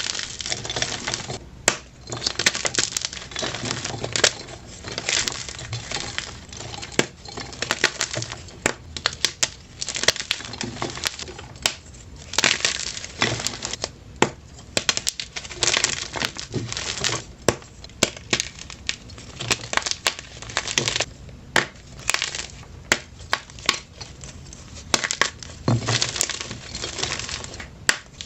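Blocks of plain white gym chalk being crushed by hand. Repeated squeezes give dense crunching and crumbling, with many sharp little cracks and a louder crunch about every second.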